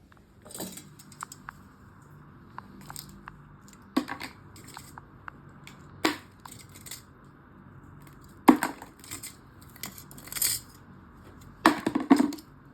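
Scattered handling noises: short crinkling and rustling sounds with sharp clicks and knocks, about eight louder ones at uneven intervals over a faint steady background hum.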